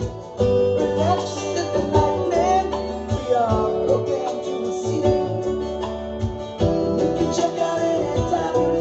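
Acoustic guitar playing a song, with a voice singing over it.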